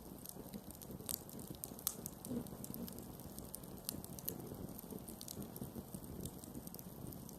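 Wood campfire burning and crackling, with irregular sharp pops over a low, steady rush of flame; the loudest pop comes about two seconds in.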